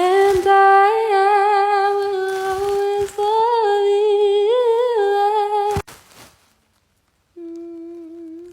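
A woman humming one long steady note with a few small wavering bends in pitch, which breaks off almost six seconds in with a click; a softer, shorter hum on about the same note follows near the end.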